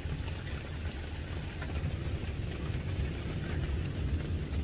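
Heavy rain falling on a car's roof and windows, heard from inside the car: a steady low drumming with faint scattered drop ticks.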